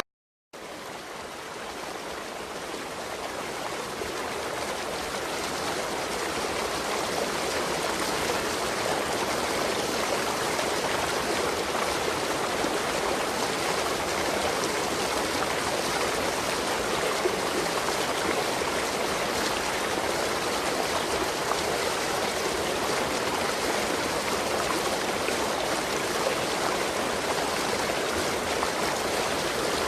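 Steady rushing water of a waterfall. It starts after a brief silent gap, swells over the first few seconds, then holds even.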